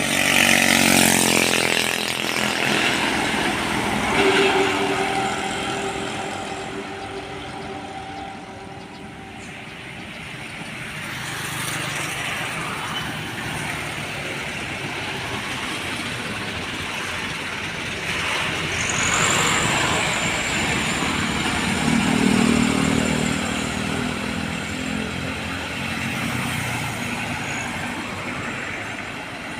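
Roadside traffic: trucks and other motor vehicles driving past one after another, each engine growing louder and fading as it goes by.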